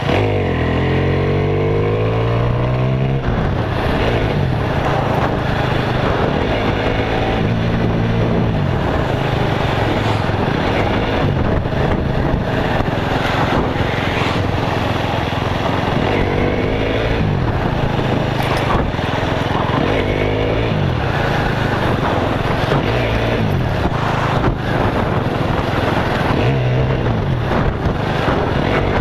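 Motorcycle engine running under way, its pitch rising and falling several times as the rider throttles and changes gear, over a dense rush of road and wind noise.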